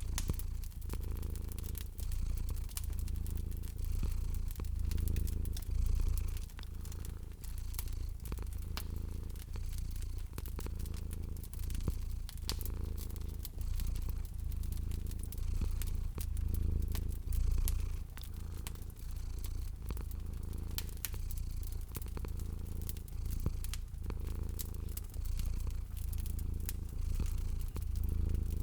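Cat purring steadily, a low rumble that swells and fades every couple of seconds, with the small sharp pops of a crackling wood fire scattered throughout.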